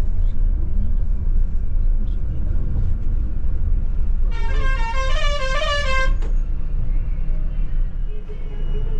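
Steady low running noise of a moving bus, with a musical multi-tone vehicle horn playing a short stepping tune for about two seconds midway.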